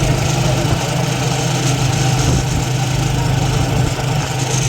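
A motor or engine running steadily: a continuous drone that does not change.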